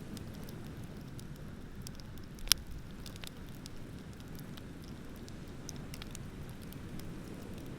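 Wood bonfire crackling with scattered sharp snaps and one loud pop about two and a half seconds in, over a steady low rush of ocean surf.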